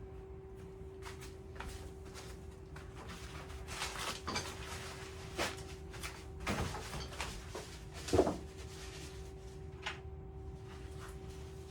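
Scattered clicks and light knocks of metal parts and tools being handled during hand work on an engine, with one louder knock about 8 seconds in, over a steady electrical hum.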